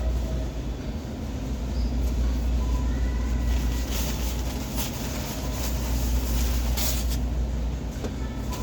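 A steady low machine hum under a rushing noise, with a few short knocks about four to seven seconds in.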